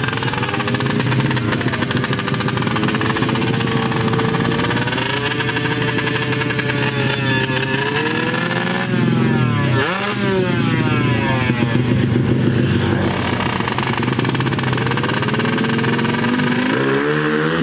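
Small underbone motorcycle engines of about 115 cc revving at high rpm. About ten seconds in, a bike passes close by and its pitch sweeps. Near the end, another engine's revs climb.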